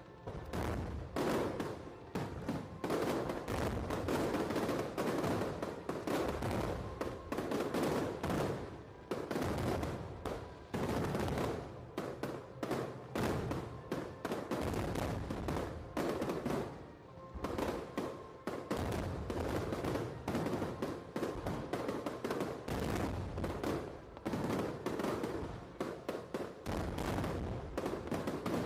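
Aerial fireworks going off in a dense barrage of rapid bangs, many a second, with no real pause.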